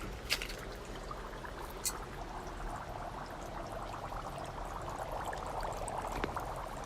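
Dry ice bubbling in hot water: a steady, dense bubbling of carbon dioxide gas churning up through the water, with a few sharp clicks in the first two seconds.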